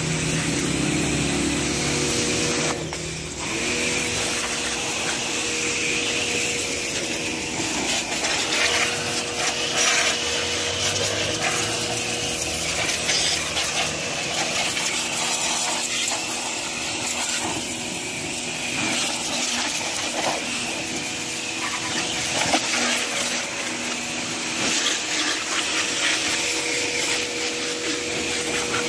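Pressure washer running: a steady motor whine with the hiss of water spraying, briefly interrupted about three seconds in.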